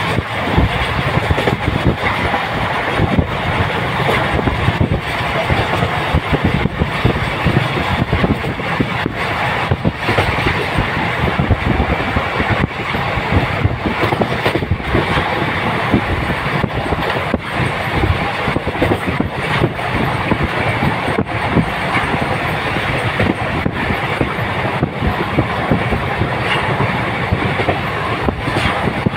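Train running at speed, heard from aboard: a steady loud rumble of the wheels on the rails, with a clack from the rail joints about every two seconds.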